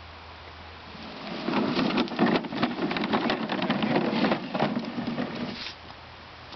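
A dense, irregular crackling rattle that starts about a second in and stops near the end.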